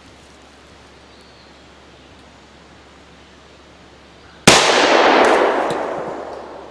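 A single pistol shot from a Tokarev TT-33-pattern pistol (Romanian TTC, 7.62x25mm) about four and a half seconds in, followed at once by a loud hiss that fades over about two seconds as a struck shaving cream can vents.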